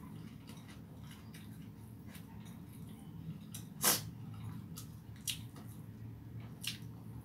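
Mouth sounds of eating fried chicken: chewing and wet lip smacks, with short sharp clicks throughout and one louder smack or crunch about four seconds in.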